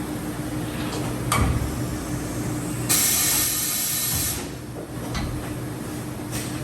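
Johnford DMC-2100HN gantry machining center running with a steady hum, a sharp click a little over a second in, a loud hiss lasting about a second and a half in the middle, and lighter clicks near the end.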